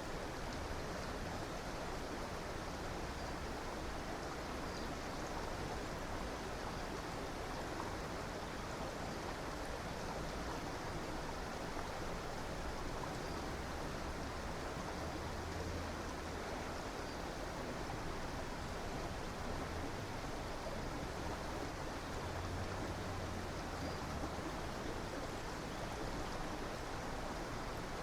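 Steady rushing of a flowing river or stream, a continuous even water noise with no breaks.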